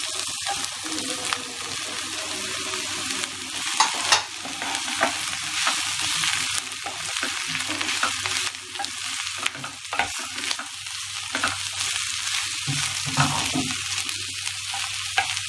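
Capsicum, onion and boiled soya chunks sizzling in hot oil in a non-stick pan, stirred with a wooden spatula. A steady hiss runs throughout, broken by scraping and short knocks of the spatula against the pan.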